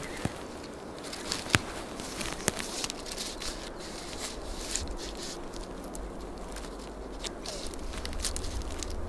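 Footsteps through dry undergrowth, with rustling and scattered sharp snaps and crackles of twigs and brush; one snap about one and a half seconds in is the loudest.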